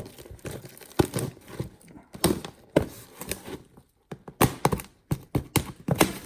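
A cardboard parcel being handled and opened: irregular knocks and thuds with short bursts of tearing and crinkling packaging.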